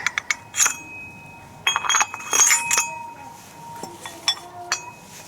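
Metal tools and parts clinking and tapping against each other, a series of sharp clicks with short ringing, in clusters near the start, around the middle, and twice more near the end.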